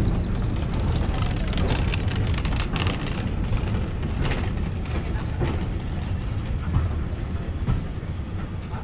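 Heritage railway train moving on the track: a steady rumble with scattered clanks and knocks.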